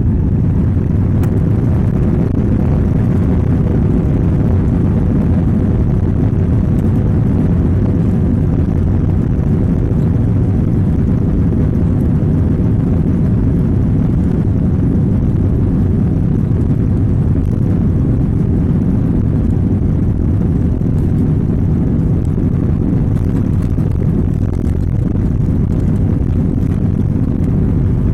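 Passenger airliner cabin noise during landing: a loud, steady low rumble of engines and airflow, with a few faint steady tones above it.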